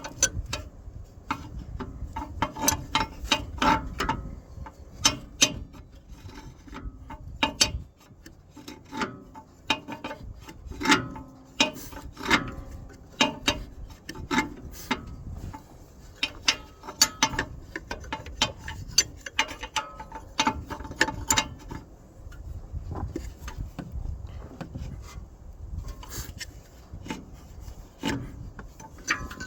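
Hand ratchet wrench clicking in runs as bolts are worked loose from the engine, with metal tool clinks and scraping between strokes.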